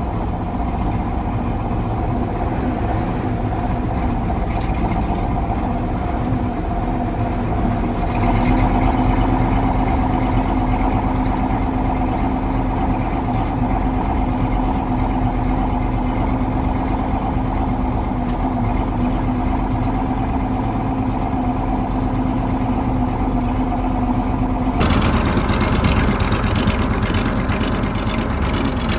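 1985 KAMAZ 4310's V8 diesel engine running steadily, a little louder and higher in pitch from about eight seconds in. Near the end the sound changes abruptly to a harsher, hissier mix.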